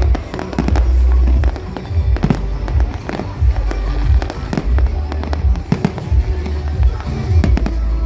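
Fireworks display: aerial shells bursting in quick, repeated bangs and crackles over a heavy low rumble, with music playing along.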